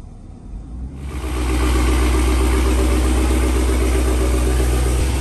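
A car engine idling steadily, loud and even, cutting in about a second in.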